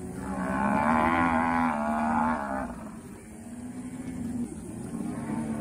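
A herd of cattle mooing, several cows calling over one another. A loud, long moo fills the first half, and lower moos follow.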